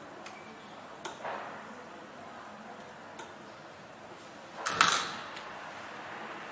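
A few sharp metallic clicks of tools and machine parts being handled while the chopper's blade is fitted and screwed on, with a louder clatter about five seconds in.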